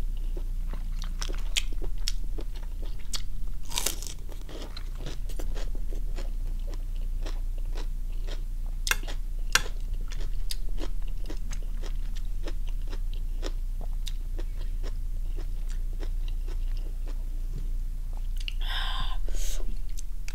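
Close-miked chewing and crunching of steamed squid with raw vegetables: a steady run of short wet clicks and crunches from the mouth, a few of them louder.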